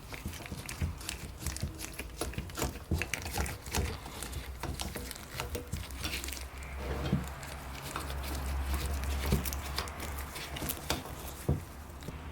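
A run of irregular light clicks and taps over a low steady hum, as from small hard parts being handled and knocked together at a workbench.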